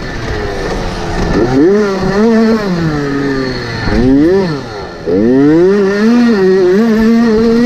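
Motocross dirt bike engines revving, pitch climbing and falling again and again as throttles open and close, with more than one bike heard at once. The sound drops back briefly and then surges loud about five seconds in.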